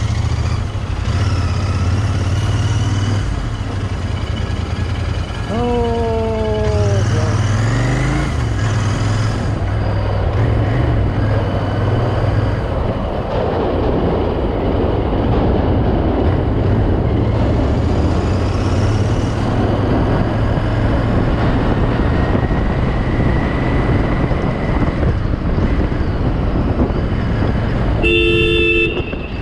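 Royal Enfield Interceptor 650's parallel-twin engine running as the bike rides through city traffic, picking up revs about seven seconds in. A vehicle horn honks briefly about six seconds in, and a second short honk comes near the end.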